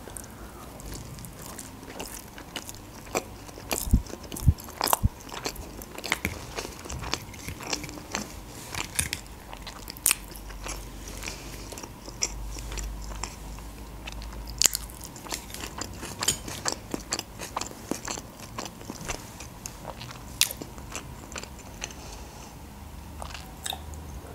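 A person chewing a bite of baked sushi roll close to a clip-on microphone. The chewing comes with many irregular sharp wet mouth clicks and smacks.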